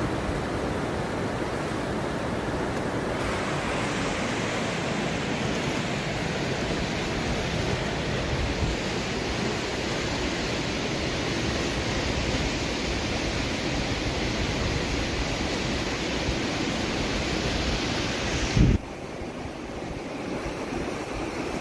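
Rushing water of a fast river, a steady roar with wind on the microphone. Near the end a single loud knock, after which the rush suddenly drops to a quieter level.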